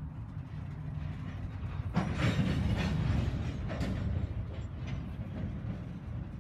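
Empty Norfolk Southern coal hopper cars rolling by, a steady low rumble of wheels on rail with rattling, louder from about two seconds in.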